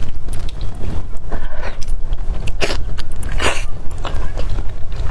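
Close-miked eating: someone biting and chewing food, with many short wet clicks and smacks of the mouth over a steady low rumble.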